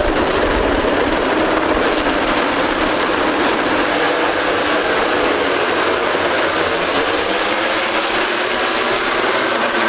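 A pack of MotoGP racing motorcycles running at high revs, a dense, continuous engine noise with several engine notes rising and falling in the second half, as the field launches at the start of the race.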